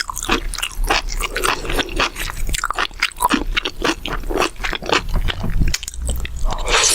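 Close-miked chewing and crunching of mala xiang guo, a spicy Chinese stir-fry: a dense run of wet, crackly bites and chews, with a louder crunch near the end.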